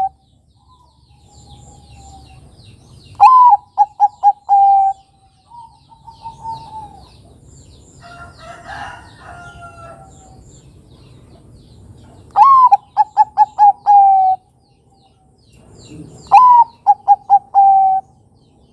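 Zebra doves (Bangkok-type perkutut) cooing. Three full songs, each a rising opening note, a quick run of short notes and a long held closing note. Fainter bird calls come in between.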